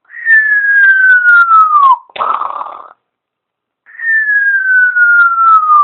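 African grey parrot whistling: two long, clear whistles that slide slowly downward in pitch, with a short raspy, breathy sound between them.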